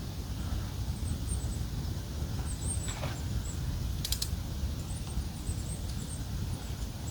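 Outdoor ambience: a steady low rumble of wind on the microphone, with faint high chirps scattered throughout and one sharp click about four seconds in.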